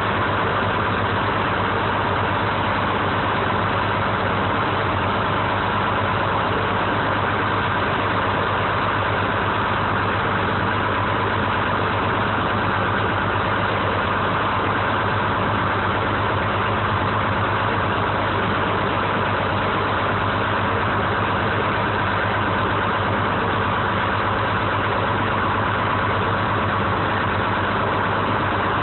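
1970 American 7510 crane's engine running steadily at an even speed.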